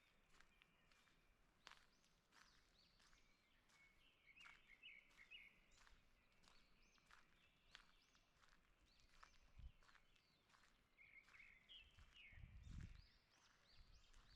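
Faint birdsong: several songbirds chirping, with short high notes repeated throughout. A few low thuds near the end are footsteps on the forest path.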